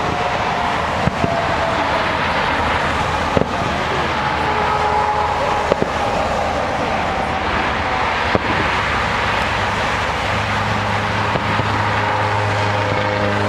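Distant fireworks shells bursting as a handful of short, sharp pops a couple of seconds apart, over steady traffic noise. A car engine idling comes in near the end.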